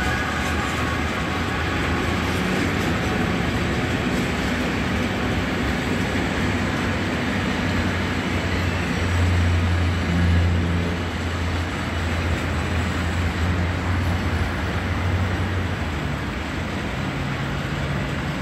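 Freight train of tank and container wagons rolling past, a steady rumble of wheels on rail, swelling about ten seconds in.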